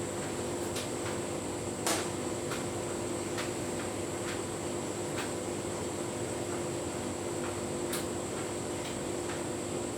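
Tumble dryer running with a full load of bedding: a steady motor and fan hum with light irregular clicks and knocks from the tumbling load, the loudest about two seconds in.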